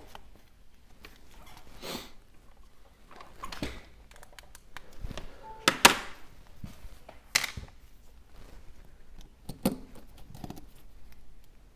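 Scattered light clicks, taps and brief scrapes of small repair tools and iPhone parts being handled on a workbench, the loudest about halfway through.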